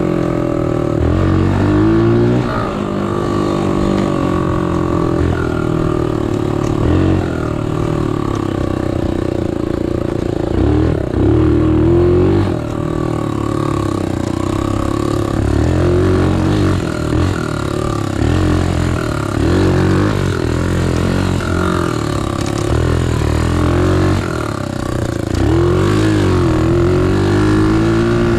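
Small 125cc single-cylinder four-stroke pit bike engine being ridden, revving up and easing off again and again, its pitch rising in sweeps and dropping back several times.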